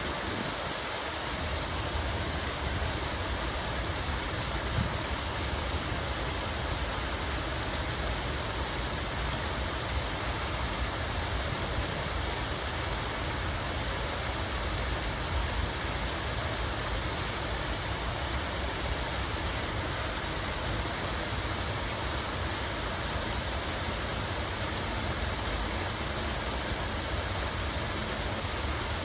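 Water running and splashing steadily, an even rushing hiss with a low rumble underneath.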